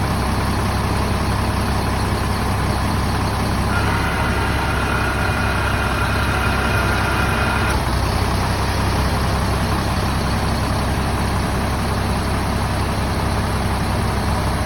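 Mercedes-Benz OM457LA straight-six turbo diesel in an O 500 RS 1836 bus idling steadily. A steady high-pitched tone sounds over the idle for about four seconds partway through.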